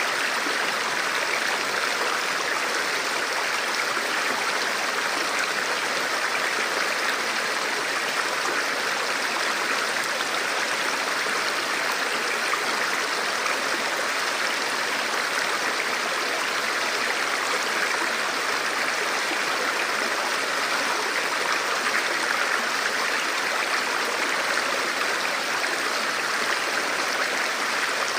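Steady rushing and babbling of a shallow river or stream flowing over rocks, even and unbroken.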